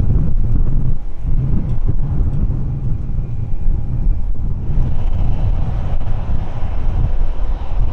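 Wind buffeting the microphone: a loud, gusting low rumble that rises and falls unevenly.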